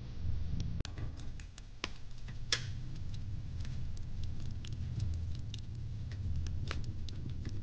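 Wood fire in a fire pit crackling, with irregular sharp pops and snaps over a steady low rumble; one louder pop comes about two and a half seconds in.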